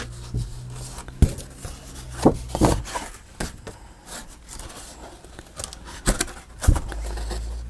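Paper crafting handling at a work table: paper rustling and scraping, with a handful of sharp taps and knocks spread through.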